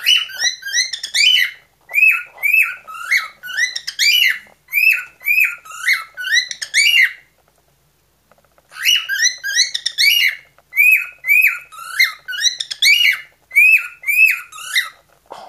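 Pet cockatiel singing a run of repeated swooping whistled notes, about two a second. It sings in two long phrases with a pause of about a second and a half between them.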